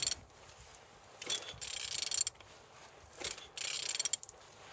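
Ratchet wrench clicking in several short bursts as the crankshaft of a Hyundai/Kia G4GC 2.0-litre four-cylinder engine is turned over by hand. The engine turns freely, a sign that it is not seized.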